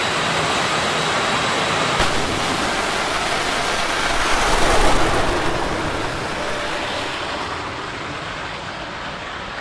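Jet-powered drag racer's turbine roar, a wide rushing noise that swells to a peak about halfway through, then fades and dulls as its high end dies away.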